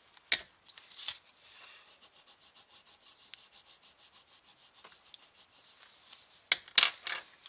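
Quick back-and-forth scribbling of a drawing tool on paper, about five strokes a second, as a picture is coloured in. A click near the start and a few sharp knocks near the end.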